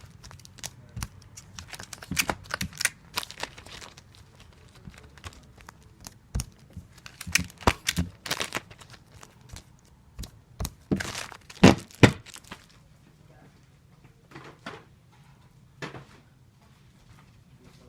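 Sticky tape pulled from a tape dispenser and torn off again and again while taping comic books: short rips, crinkling and light knocks. The busiest, loudest stretch is around 11 to 12 seconds in, and it thins out to a few scattered clicks after that.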